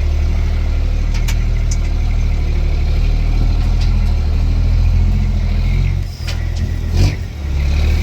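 Cummins M11 diesel engine of a dump truck running steadily, heard from inside the cab. About six seconds in the engine note dips briefly, and a sharp knock follows about a second later.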